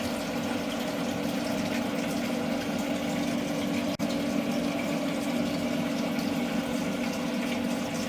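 Water running steadily from a tap into a sink, with a steady low hum underneath.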